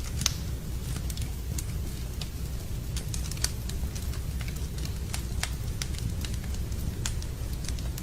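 Wood campfire crackling: irregular sharp pops and snaps, a few louder ones about a quarter second in and around three and a half seconds in, over a steady low rumble.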